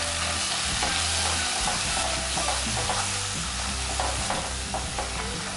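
Ground masala paste and spice powders sizzling in hot oil in a metal kadhai, with a steel spoon stirring and scraping the pan. A steady frying hiss with light scrapes is heard as the spices are sautéed in the oil.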